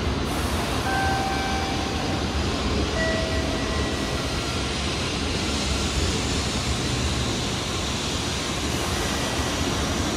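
N700-series Shinkansen train running alongside the platform: a loud, steady rushing noise with a few brief whine tones coming and going over it.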